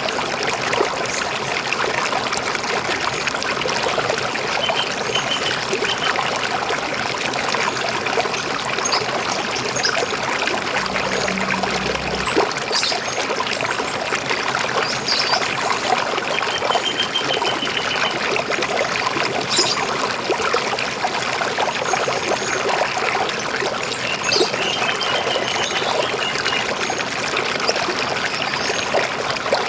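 River water flowing and rushing steadily, with a few short bird trills and chirps over it.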